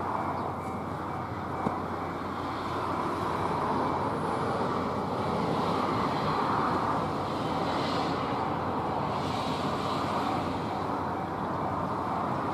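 Echigo TOKImeki Railway express train running along the line: a steady rumble of wheels and motors that swells slightly midway.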